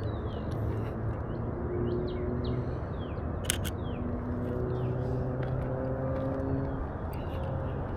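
Steady low outdoor rumble with faint drifting engine-like hums, small birds chirping in short falling notes, and a sharp double click about three and a half seconds in.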